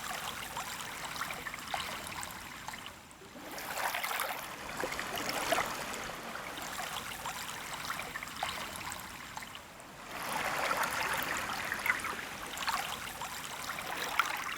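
Small, gentle sea waves washing onto a sandy beach: each wash swells and fades, with new ones coming in about four seconds in and again about ten seconds in.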